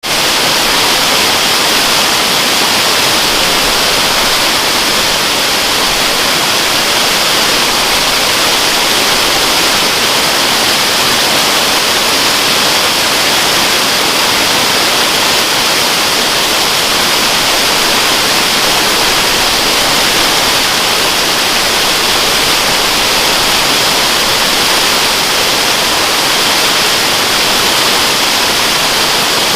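Waterfall: a loud, steady rush of falling water, even and unchanging, with most of its weight in a high hiss.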